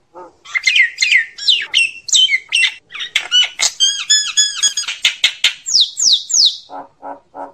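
Common myna calling: a rapid run of varied squawks, whistles and chattering notes. Near the end come three quick falling whistles, then a few lower, harsher notes. It is the myna's flock-gathering call.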